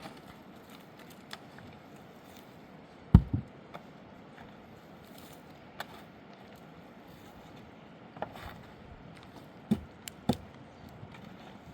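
Scattered knocks and thuds at irregular times, the loudest two close together about three seconds in and a small cluster near the end, over a faint steady background noise.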